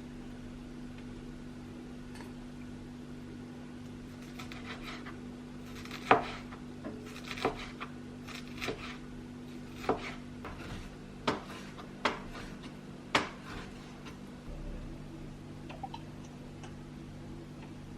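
Kitchen clatter of dishes and utensils: a run of about eight sharp clinks and knocks in the middle of the stretch, over a steady low hum.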